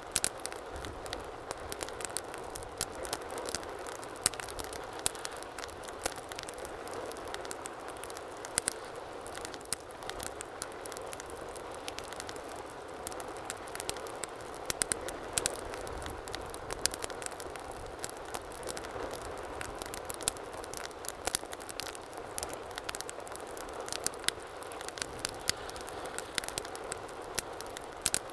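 Wood fire burning with a steady soft hiss and frequent irregular crackles and pops, a few of them sharp and loud.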